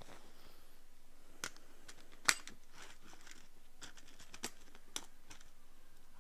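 Ear pick scraping inside an ear canal close to the microphone: a string of short crisp scratches and clicks, about seven in all, the sharpest about two seconds in.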